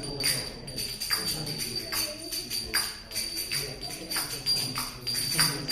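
Kartals (small brass hand cymbals) clinking irregularly, about two strikes a second, over a steady high ring, as several are handled and tried at once.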